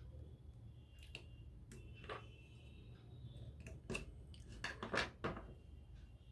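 Faint clicks and taps of small tools and parts being handled on a workbench, with a quick cluster of sharper clicks about five seconds in, over a low steady hum.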